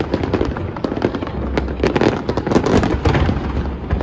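Large aerial fireworks display going off continuously: many overlapping bangs and crackling shell bursts over a steady low rumble.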